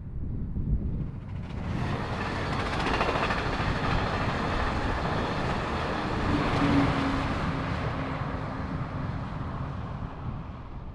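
A train passing at speed: a rushing noise of wheels on rail builds about two seconds in, is loudest in the middle, and fades away near the end.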